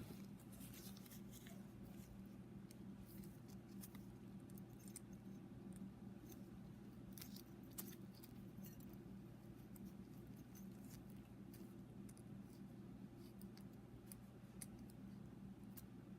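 Faint, scattered small metal clicks and ticks of a feeler gauge blade being tried in a piston ring groove to check the rings' side clearance, over a steady low hum.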